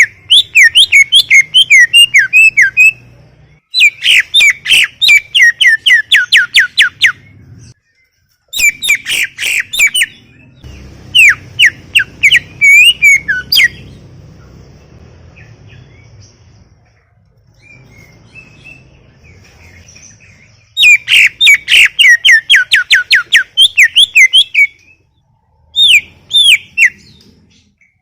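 Cucak ijo (green leafbird) singing in full song: rapid runs of sharp, chirping, sweeping notes in phrases of a few seconds each, with a pause of several seconds about halfway through.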